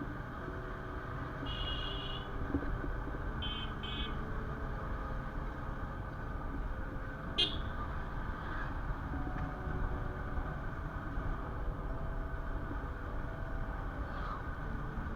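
Steady engine and road rumble of a motorcycle ride in traffic, with a vehicle horn sounding once near the start and then two short toots, and a sharp click about halfway through.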